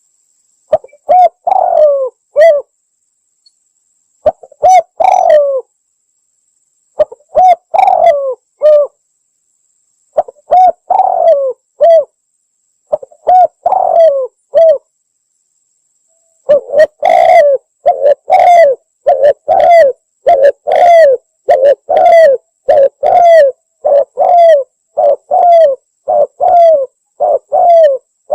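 Spotted dove (tekukur) cooing, used as a lure call. Short phrases of falling coos come with pauses between them, then from about halfway they run on closely at about one phrase a second.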